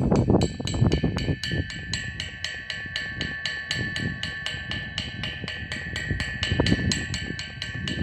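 Drums played outdoors in a steady fast beat: sharp strikes about five a second over a steady ringing tone, with irregular heavier low thuds.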